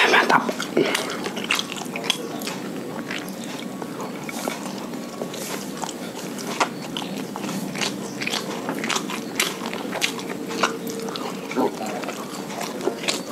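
Close-miked chewing of fried rice, with wet lip smacks and mouth clicks every so often.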